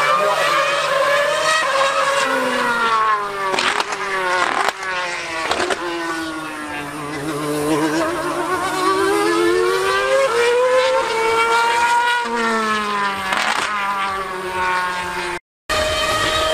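High-revving racing engine accelerating and slowing, its pitch climbing and falling over several seconds and broken by several sharp gear changes. The sound cuts out completely for a moment near the end.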